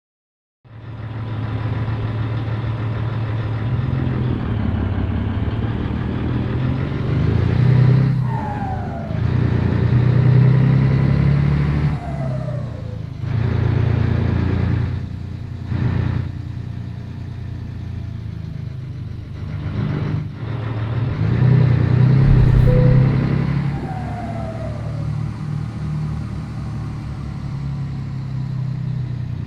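Scania 113 truck's 11-litre six-cylinder turbo-diesel engine pulling up through the gears, swelling under throttle and dropping off briefly at each gearchange. Short falling whistles follow several of the pulls.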